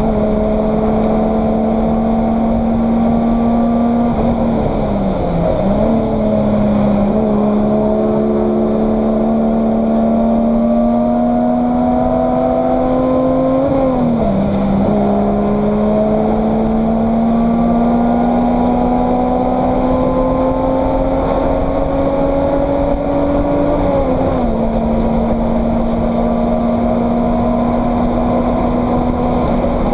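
Race car's engine heard from inside the cockpit, running hard with its pitch climbing slowly, then dropping sharply and recovering three times, about ten seconds apart, over constant road and wind noise.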